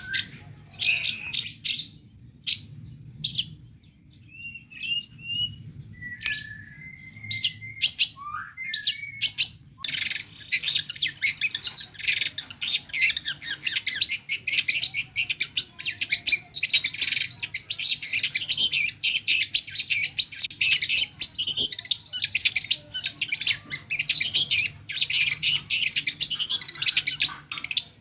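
Long-tailed shrike singing: scattered short calls and brief whistled slurs for about the first ten seconds, then a fast, unbroken chattering song of mimicked phrases from other birds.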